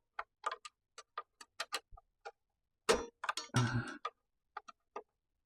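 Light, irregular clicks and taps of a screwdriver and metal parts being worked on a miter saw, a few a second, with a busier cluster of clicks and scraping about three seconds in.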